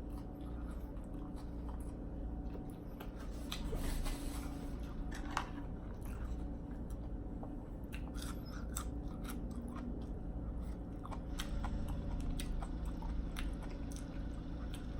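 A person chewing a mouthful of food close to the microphone: many short crisp crunches and mouth clicks at an uneven pace, over a steady low hum.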